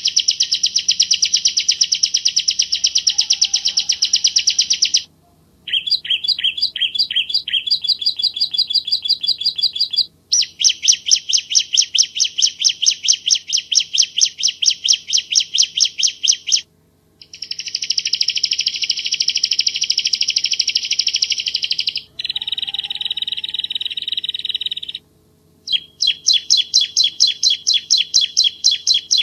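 Bar-winged prinia (ciblek jawa) singing: long runs of rapid, closely spaced, clear chirping notes, in phrases of a few seconds each broken by short pauses.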